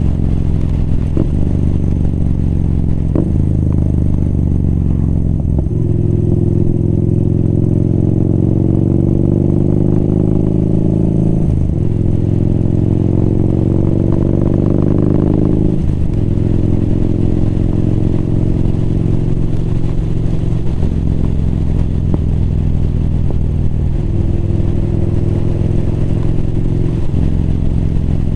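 Motorcycle engine heard from the saddle, pulling up through the gears: the pitch climbs twice and drops sharply at each upshift, about halfway through, then settles into a steady cruise.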